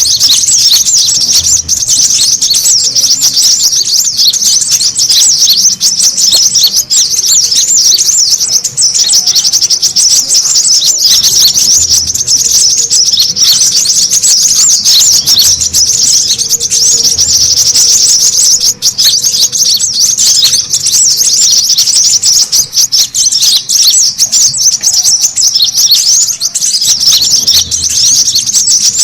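Brown-throated sunbird (kolibri kelapa) calling noisily, a loud, unbroken stream of rapid, high-pitched chirps: the agitated call used as a bird lure.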